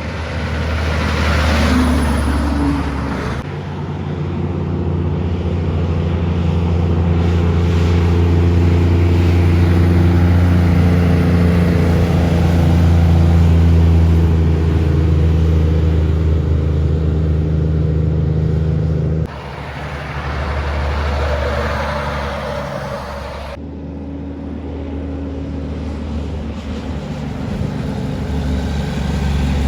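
Kenworth cabover trucks' heavy diesel engines running as they drive by, a steady low drone. The sound changes abruptly three times as one truck's clip cuts to the next.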